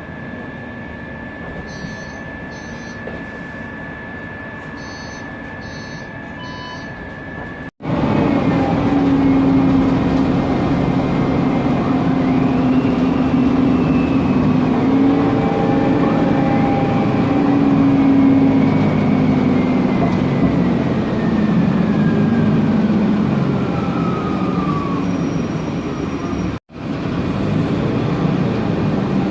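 Interior running noise of a Mercedes-Benz Conecto NGT CNG city bus with a Voith DIWA automatic gearbox. At first it is quieter, with a steady high whine. After a sudden break it is louder as the bus drives. The Voith transmission's whistle glides up in pitch, then falls slowly over many seconds.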